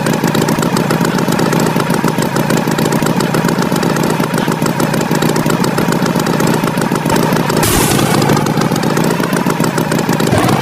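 Tractor engine running at a steady idle, with a short hiss a little over two-thirds of the way through.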